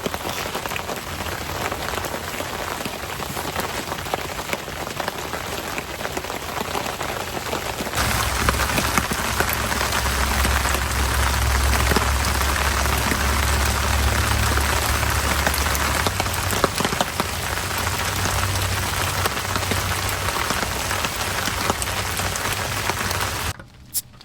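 Steady rain falling, louder from about eight seconds in, with a low rumble underneath for several seconds after that. The sound drops away suddenly just before the end.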